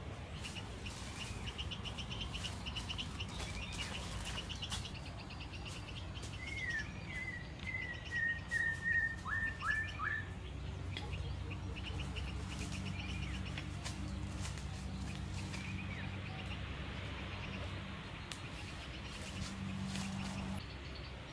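Wild forest birds calling. A run of repeated slurred whistled notes comes about a third of the way in, over a fast, high pulsing trill that comes and goes.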